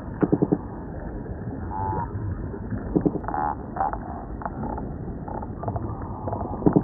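Underwater recording of fish calls: short rapid trains of low pulsed grunts, one about a quarter second in, another around three seconds and one near the end. Between them come several short croaking calls whose pitch drops, over a steady low rumble.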